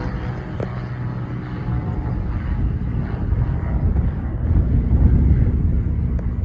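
Propeller airplane's engine drone fading into a low rumble, with wind buffeting the microphone.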